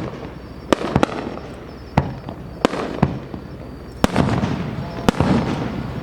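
Aerial firework shells bursting in a series of sharp booms, about eight in six seconds at uneven intervals, each followed by a rolling echo; the bursts crowd together and the rumble thickens a little past the middle.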